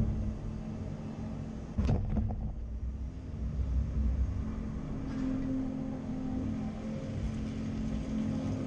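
Caterpillar 330 excavator's diesel engine running steadily, with one sharp clank a little under two seconds in.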